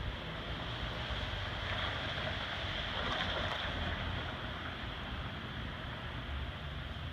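Snowy downtown street ambience: a steady hiss that swells about two to four seconds in and then eases off, over a low steady hum.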